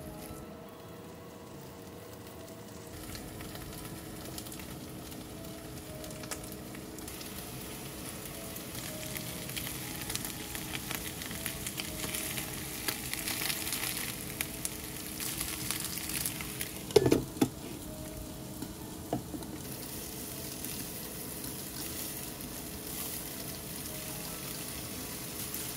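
Ground-pork patties and meat-stuffed green peppers sizzling as they fry in oil in frying pans, a crackling hiss that grows stronger from about three seconds in. A louder clatter about seventeen seconds in.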